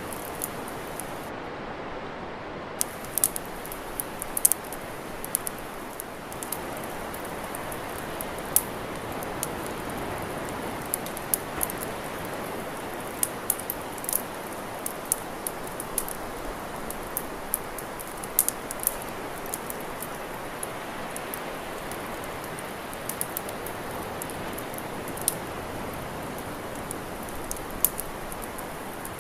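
Wood campfire crackling, with frequent irregular sharp pops and snaps over a steady rushing hiss.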